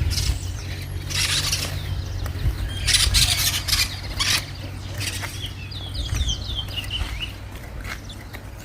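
Towa-towa finch singing a quick run of short, high chirping notes about two-thirds of the way through, one song of the kind counted in a bird-singing race. Earlier there are two short bursts of rustling noise over a steady low hum.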